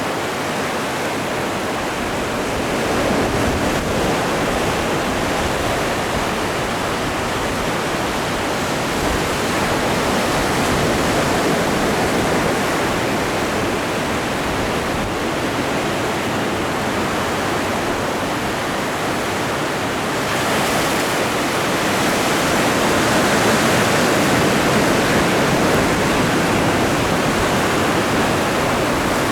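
Atlantic Ocean waves washing onto the shore, a steady rushing surf that swells a little louder about three seconds in and again after about twenty seconds.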